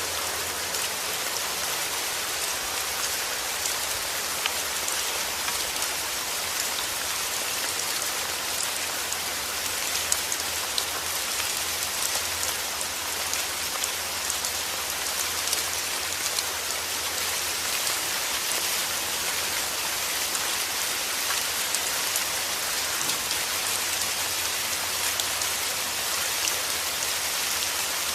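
Steady rain, an even hiss with many small drop ticks and the odd sharper drop hitting a surface.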